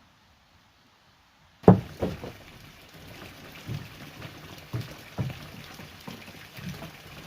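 Near silence, then about a second and a half in a sudden loud knock, followed by a run of irregular knocks and clunks over a steady background hiss.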